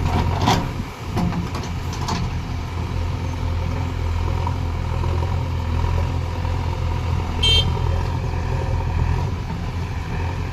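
Heavy diesel engine running steadily as a JCB works loading soil into a tractor trailer, with a few knocks in the first two seconds and a brief high squeak about seven and a half seconds in.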